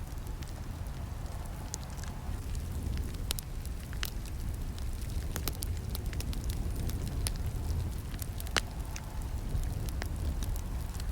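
Campfire burning: a steady low rumble of flames with irregular sharp crackles and snaps, the loudest snap about eight and a half seconds in.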